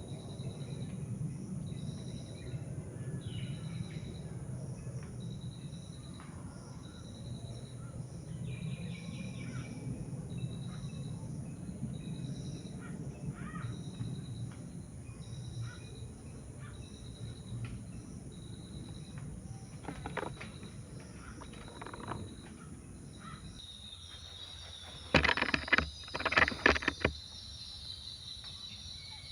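Outdoor ambience with a low rumble and a steady high insect drone. A short high chirp repeats about every second, likely a cricket or small bird, with a few other bird calls. Near the end comes a brief cluster of loud sharp knocks or clatter.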